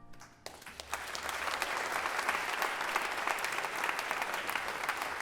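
Audience applauding at the end of a song, starting about half a second in and quickly building to steady, full clapping.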